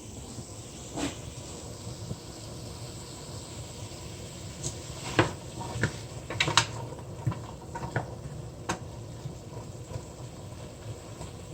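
Diced vegetables sautéing in oil in a pot, a low steady hiss, with a spoon now and then clicking and knocking against the cookware.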